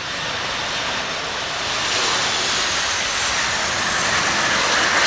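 Jet airliner landing, its engines giving a steady rushing noise that grows a little louder about two seconds in.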